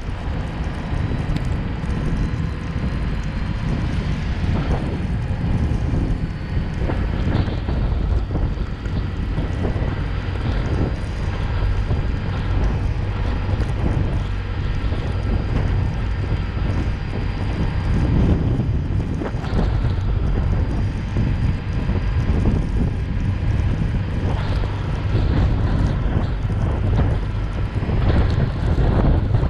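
A car driving: a steady low rumble of engine and tyres, with wind noise.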